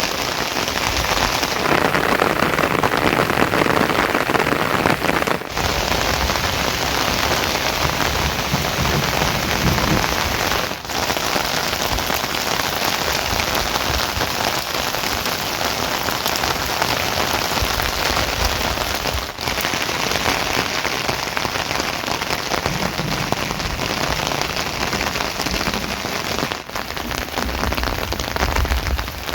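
Steady, heavy rain falling, with four short dropouts spread through it.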